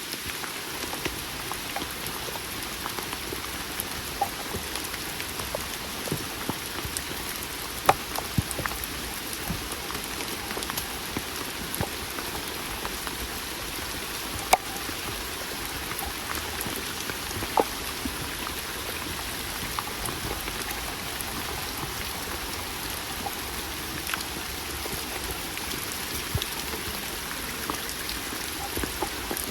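Steady rain falling, an even hiss with sharp, irregular ticks of single drops striking close by.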